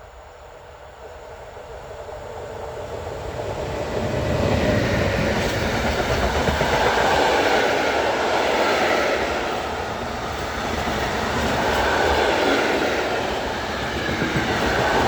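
A train approaching and passing close by on the line, rising over the first few seconds and then running past loudly, its wheels clattering on the rails.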